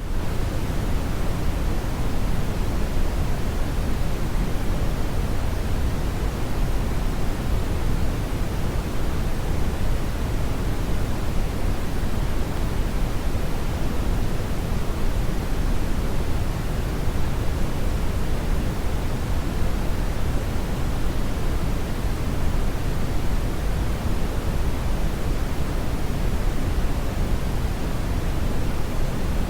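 Brown noise: a steady, even hiss weighted heavily toward the deep end, strongest in the bass and thinning toward the highs, with no changes or separate events.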